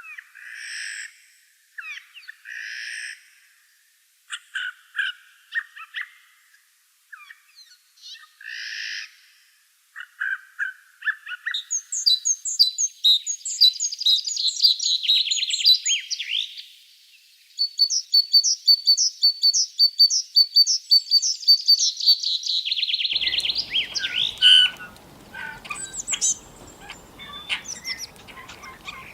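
Birds singing. Short, separate calls come first. About twelve seconds in, a long run of rapid, high, repeated notes begins. Near the end it gives way to mixed calls over a faint background hiss.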